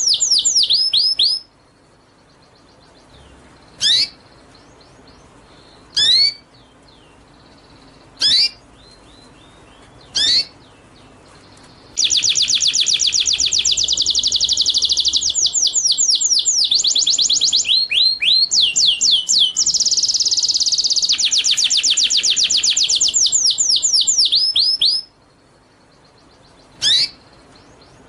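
A songbird singing: rapid runs of sweeping whistled notes in long bursts, with single sharp calls in the pauses between them.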